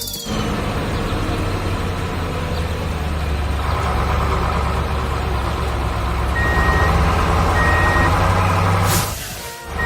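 Heavy truck engine running steadily, its reversing alarm starting to beep about once a second past the middle. A short hiss near the end, then a brief drop in sound.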